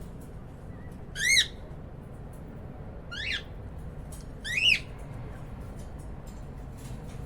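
Cockatiel giving three short, sharp calls, about a second in, at about three seconds and at about four and a half seconds, each a quick rise and fall in pitch. Faint scattered clicks come between the calls.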